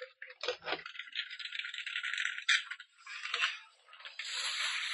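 Plastic bag of frozen dumplings being handled and opened: the bag crinkles and the hard frozen dumplings rattle inside, a dense crackling with many small ticks.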